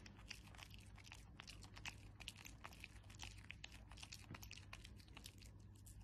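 A Yorkshire terrier chewing a small bite of food, a fast irregular run of faint crunching clicks.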